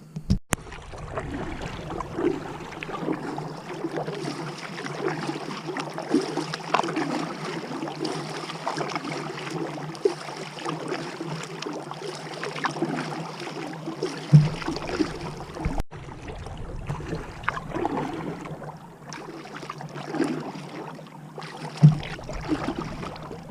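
Kayak being paddled: the paddle blades dip and splash in the water with repeated strokes, with two sharper thumps, one in the middle and one near the end.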